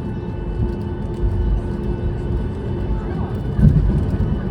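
Steady engine hum and low rumble inside an airliner cabin as it taxis after landing, with faint passenger voices. There is a louder low thump about three and a half seconds in.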